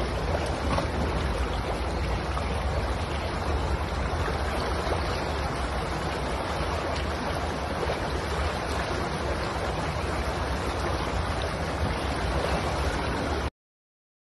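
Steady rush of water flowing at a weir, an even noise without pauses. It cuts off abruptly shortly before the end.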